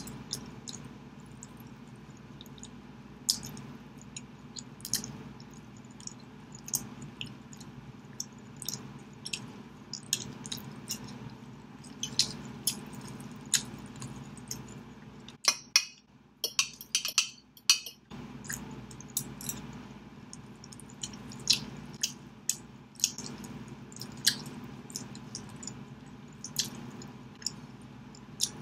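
Close-up eating sounds of roast chicken: chewing with many short, sharp mouth clicks, and a fork clinking and scraping on a glass baking dish, with a dense run of clicks a little past halfway.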